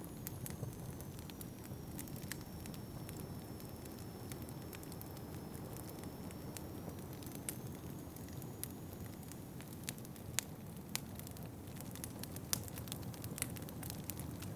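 Wood fire crackling in a fireplace: scattered sharp pops and snaps over a low steady rumble, the pops coming more often in the last few seconds.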